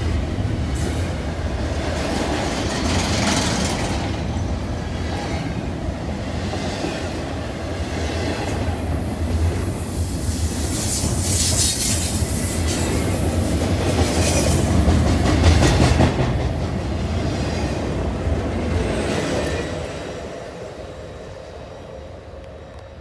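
Double-stack intermodal freight train's well cars rolling past close by: a heavy steady rumble of wheels on rail with high screeching squeals coming and going. Near the end the rumble fades as the last car passes and the train draws away.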